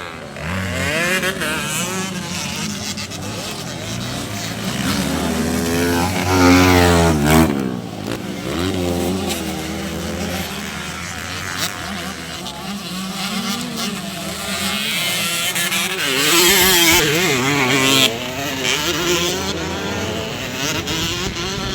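Racing motorcycle engines revving hard and rising and falling in pitch as bikes accelerate and pass, loudest about six to seven seconds in and again around sixteen to eighteen seconds in.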